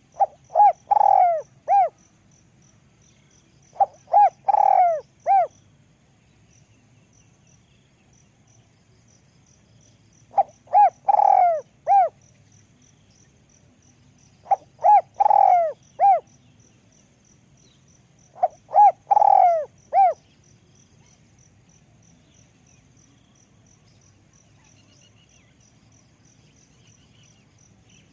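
Spotted dove cooing in five phrases a few seconds apart, each a couple of short notes, a long drawn coo and a closing short note, in a high, thin voice.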